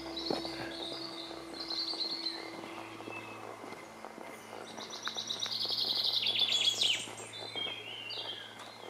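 Songbirds singing outdoors, with a loud rapid trill of repeated notes from about five to seven seconds in.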